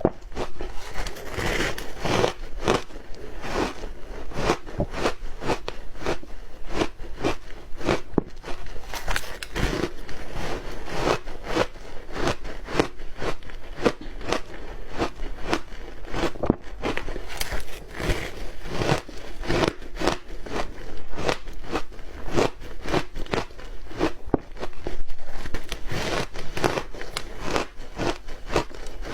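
A person biting and chewing ice: a continuous run of crisp crunches and crackles, several a second.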